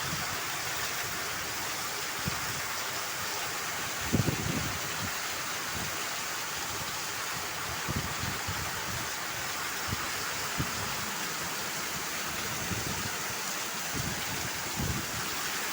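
Heavy rain pouring down in a steady hiss, with short low gusts of wind buffeting the microphone about four seconds in and a few times after.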